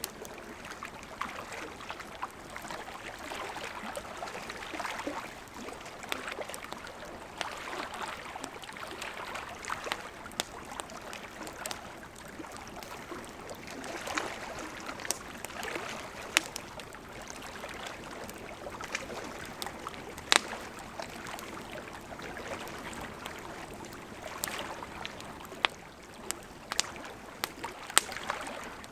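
Wood campfire crackling with frequent sharp, irregular pops over the steady rush of a gently flowing river.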